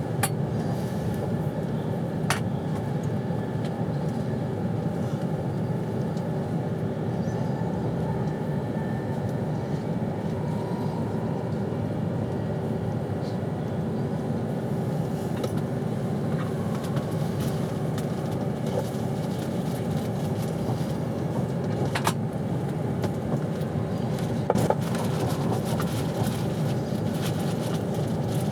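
Steady running rumble and hum of a passenger train heard from inside the coach, with a constant low tone and a few sharp clicks and knocks.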